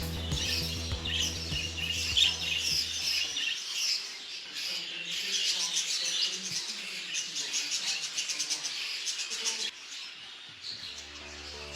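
A flock of small farmed birds chirping and twittering together in quick, overlapping calls. Background music plays underneath at first, drops away a little over three seconds in, and comes back near the end.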